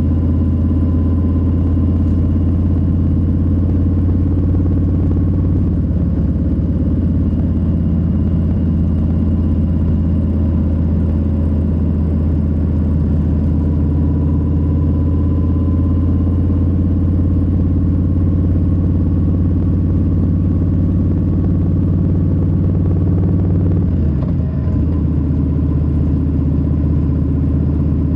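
Harley-Davidson Low Rider S's Milwaukee-Eight 117 V-twin running steadily under way. Near the end its note dips briefly and then settles at a different pitch.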